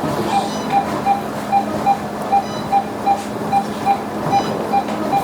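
Anaesthesia patient monitor beeping with each heartbeat of the anaesthetised dog, about two short, even beeps a second, over a steady hum of operating-room equipment.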